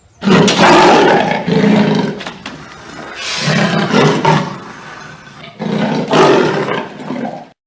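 A large animal giving three long, loud, rough calls, one after another with short pauses between them.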